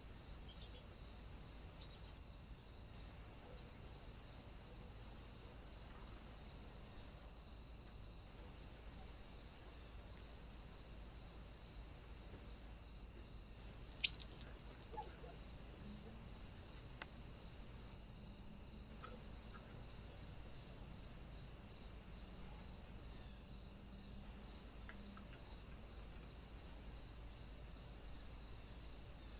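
Steady high-pitched hiss with a faint regular pulsing about twice a second. A single sharp click comes about halfway through, followed by a smaller tick a second later.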